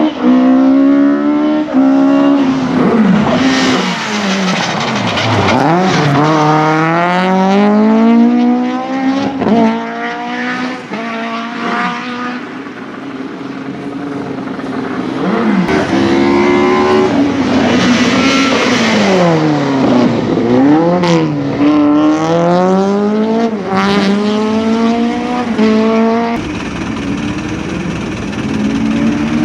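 Racing car engine at full effort, its note repeatedly climbing under acceleration and dropping sharply, several times over, as the car drives a tight sprint course.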